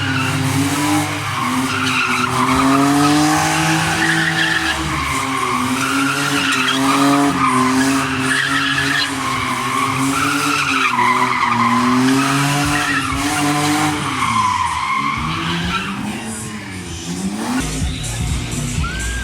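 Monster truck engine running hard, its pitch rising and falling as the driver works the throttle. It drops off and revs back up near the end.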